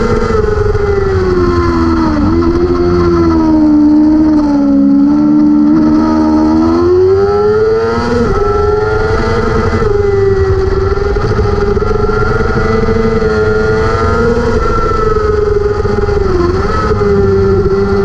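600cc superbike racing motorcycle engine running at high revs with wind rushing past. The revs drop for a few seconds, then climb back and hold high, with a brief dip near the end.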